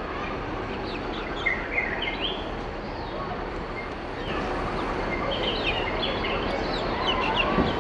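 Birds chirping in short, high calls, in clusters about a second and a half in and again through the second half, over steady outdoor background noise.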